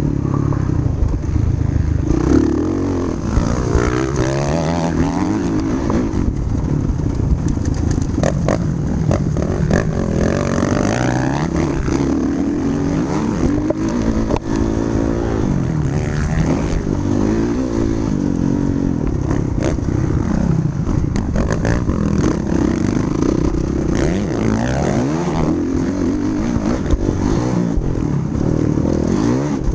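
Motocross dirt bike engine revving up and down without a break, its pitch rising and falling again and again as the throttle opens and closes.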